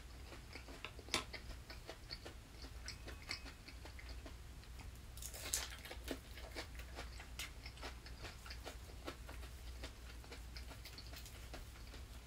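Chewing and crunching of crisp battered vegetable tempura, a fried green pepper, as a string of small crunchy clicks. There is a louder crunching bite about five seconds in.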